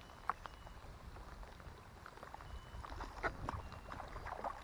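Topwater lure being retrieved across a lake's surface: short plopping splashes, sparse at first and coming closer together after about three seconds, over a low rumble of wind on the microphone.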